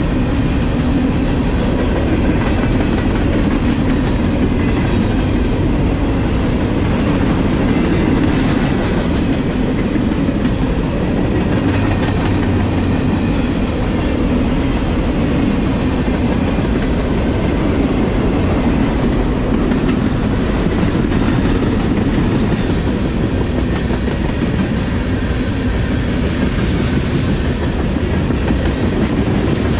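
A CSX manifest freight train's cars, covered hoppers, boxcars and tank cars, rolling past close by. Their steel wheels run on the rails with a steady loud clatter.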